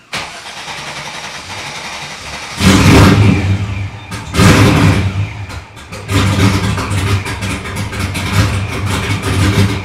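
Cold LS1 V8 with aftermarket heads and cam and a ProCharger D1SC supercharger, running steadily at first, then blipped twice hard about 2.5 and 4.5 seconds in, and then running unevenly and loudly with the revs rising and falling.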